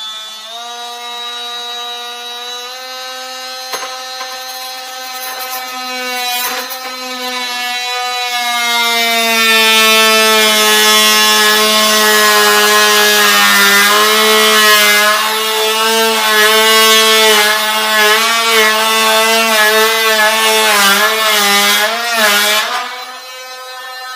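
Electric power tool cutting, its motor whine steady at first, then dipping and wavering in pitch under load, growing louder, and stopping suddenly near the end.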